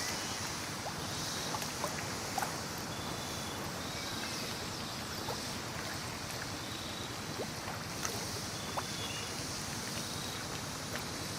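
Steady lakeside ambience: an even wash of water and wind noise, with a few faint high chirps and light ticks scattered through it.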